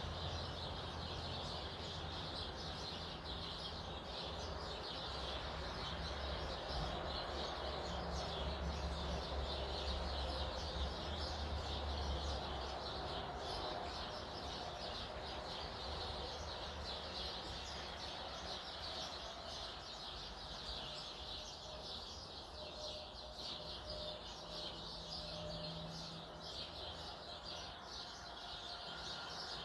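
Many small songbirds chirping continuously at once, a dense overlapping chatter of short high calls, with a low steady rumble underneath for the first dozen seconds.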